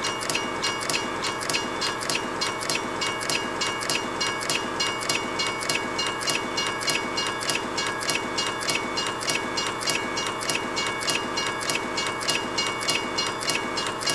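Train running past, its wheels clicking over the rail joints in a quick, even rhythm of about four a second, with a steady high tone held over it.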